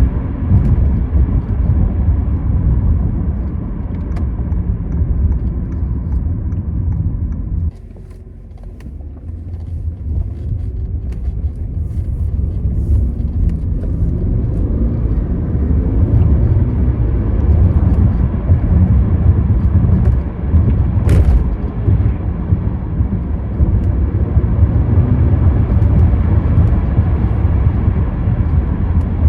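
A 2014 Audi A8 L on the move: a steady low rumble of road and wind noise. It drops sharply about eight seconds in, then builds back up over the following several seconds.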